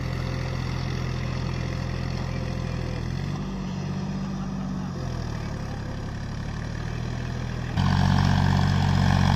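John Deere 5050D tractor's three-cylinder diesel engine running steadily. Its pitch rises briefly a few seconds in and settles back, and near the end it suddenly gets louder.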